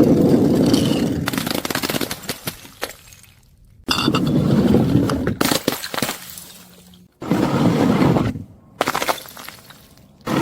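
Glass bottles and jars smashing, five times in a row, each a sudden crash followed by shards clattering and settling.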